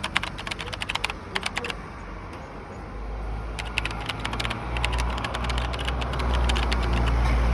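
Two bursts of rapid, irregular clicking and rattling, one at the start and one about halfway through, over a low rumble that swells from about three seconds in.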